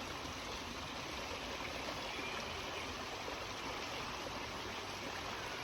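Steady rushing outdoor ambience, with no distinct events.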